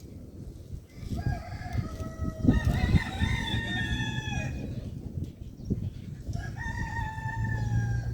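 A rooster crowing twice: a long call starting about a second in, and a second call near the end, over a steady low background rumble.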